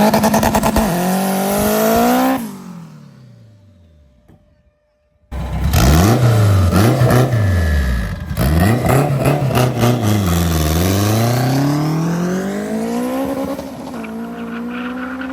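A car engine revving hard, its pitch climbing and dropping again and again as it accelerates, then dying away about two and a half seconds in. After a sudden cut-out lasting under a second, a loud engine comes back, its pitch sweeping up and down several times before it settles lower near the end.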